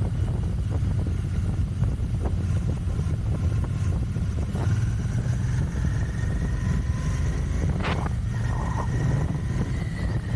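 Royal Enfield Continental GT 650's parallel-twin engine running under way through its stock exhaust: a steady low rumble, with a faint high whine from about halfway.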